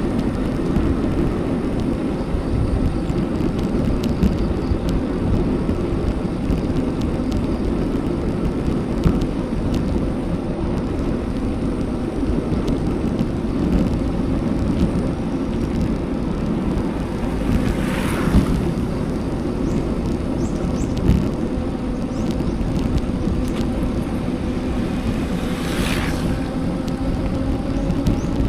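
Steady wind rush on an action camera's microphone, with road noise while riding a bicycle. Two brief higher hisses come about two-thirds of the way in and near the end.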